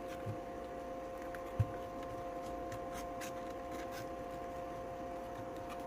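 Faint, scattered clicks and light rubbing as the rebuilt battery pack and its wires are fitted back into the inflator's plastic housing, over a steady faint hum.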